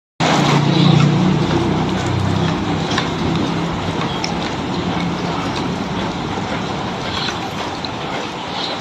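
Steady hiss of falling rain water, with a low hum fading out over the first few seconds and a few short, high bird chirps.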